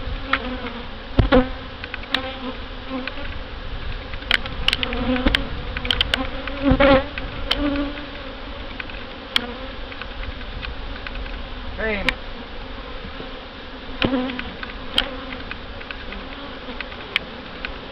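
Honey bees buzzing steadily around an open hive during an inspection, with single bees passing close by, one buzz sliding down in pitch about two-thirds of the way through. A few sharp clicks and knocks sound over the buzzing.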